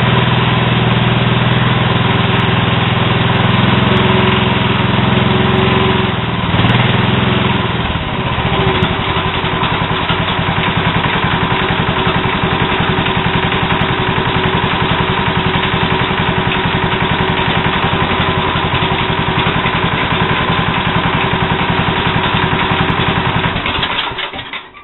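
1970 Sears Suburban SS12 garden tractor's single-cylinder Tecumseh engine running, the engine that its title says still knocks. About a third of the way in, the running sound changes to an even, rapid pulsing, and the engine cuts out near the end.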